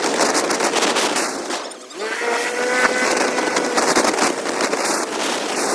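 Motorcycle engine running while riding, under heavy wind noise and crackling buffeting on the microphone. Just before two seconds in the sound briefly drops away, then the engine note comes back and rises slightly.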